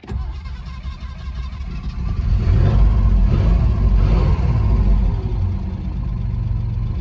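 Citroën SM's carburetted Maserati V6 starting up and running, heard from the driver's seat. The revs rise over the first couple of seconds, hold, then ease back a little toward idle.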